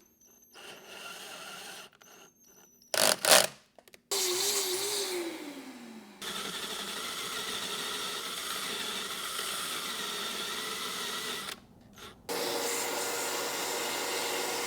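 Electric drill with a 21/64 in bit boring out the stripped exhaust-stud hole in a Honda D15B7 cylinder head, heard in several short cut-together runs. One run winds down in pitch about four to six seconds in, followed by long steady stretches of motor noise.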